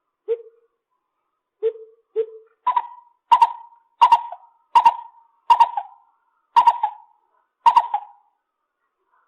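Lesser coucal calling: three low hollow notes, then a run of about eight higher, sharper notes at an even pace of roughly one every 0.7 seconds.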